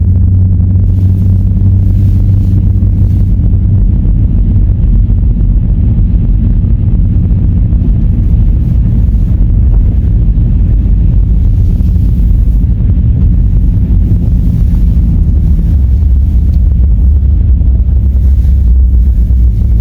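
Car being driven slowly on snowy road: a loud, steady low rumble of engine and tyres, unchanging throughout.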